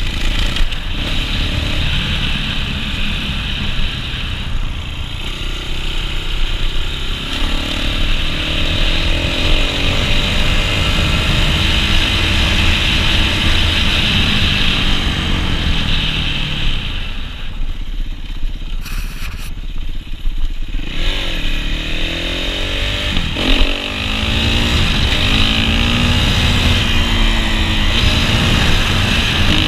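Dirt bike engine revving up and down as it shifts through the gears, over a steady rush of wind noise. About two-thirds through the revs and wind drop off for a few seconds, then the engine climbs again in a run of rising sweeps.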